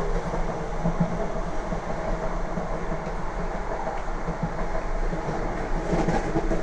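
Lastochka (Siemens Desiro RUS) electric train running along the track, a steady rolling noise of wheels on rail with a low hum.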